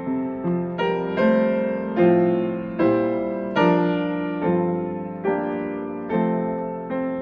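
Solo piano playing a slow hymn accompaniment with no singing. Chords are struck at an even pace, about one every second or a little faster, and each is left to ring and fade into the next.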